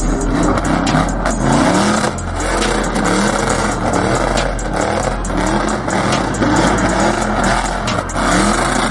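Car engine revved in quick repeated blips, its pitch rising with each blip.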